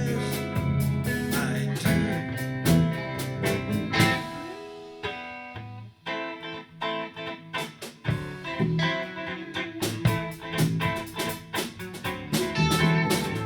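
Blues-rock band playing: guitar over bass and drums. About four seconds in the drums fall away and the music thins to guitar for a few seconds, then the full band comes back in.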